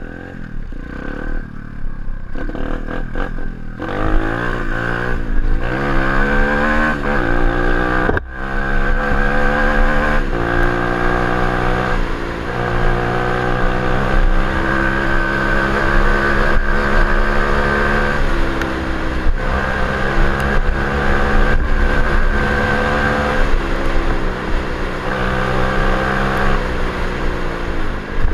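Orion CRF37-2 125cc dirt bike's single-cylinder engine under way, revving up and dropping back at each gear change several times, with low wind rumble on the microphone.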